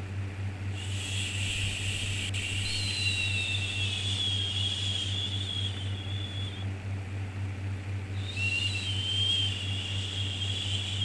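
Drawn-out 'shhh' shushing sounds for soothing a baby, two long shushes with a short pause between, over a steady low hum and white-noise hiss.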